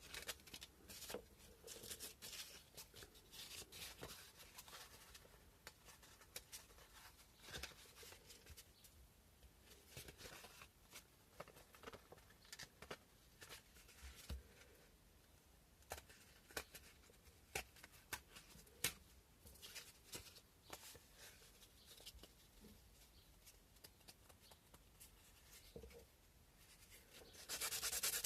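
Faint, scattered scratches and small clicks from handling; about a second before the end, sandpaper starts rubbing steadily against a cow-bone fish hook, hand sanding.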